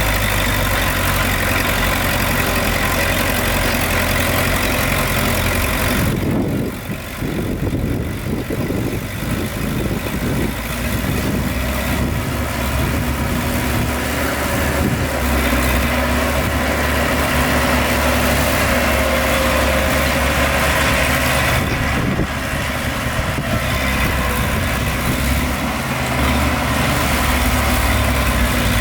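Heavy earthmoving machine's diesel engine running steadily with a low hum, dipping briefly about six seconds in.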